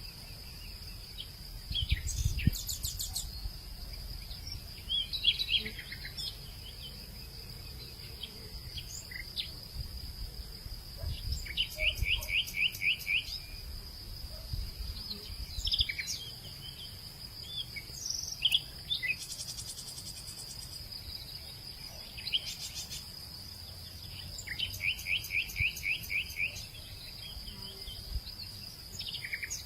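Hillside ambience: insects keep up a steady high-pitched drone while birds call over it. Twice a bird gives a quick run of about eight repeated notes, and other short chirps come in between. Now and then there is a brief low rumble.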